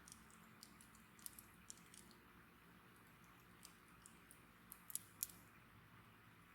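Wood bonfire crackling quietly: scattered sharp pops and ticks over a faint steady hiss, with the two loudest pops close together about five seconds in.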